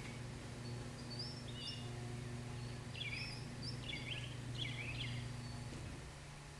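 Small birds chirping in a few short bursts of quick notes over a steady low hum, which stops about six seconds in.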